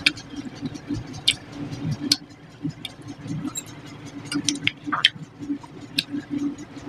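Close-miked eating sounds: wet chewing, lip smacks and mouth clicks as rice and fish curry are eaten by hand. Sharp clicks and smacks come several times a second, with a few louder ones scattered through.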